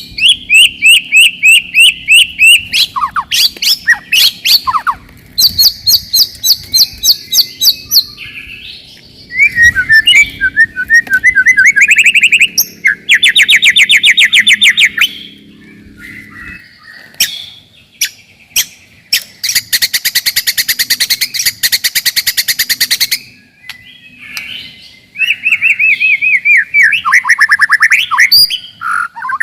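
White-rumped shama (murai batu) singing a loud, fast song of repeated whistled notes and rapid trills in phrases with short pauses, with a long harsh rattling burst near the middle. It is the dense, aggressive 'rapid-fire' song used to provoke rival males.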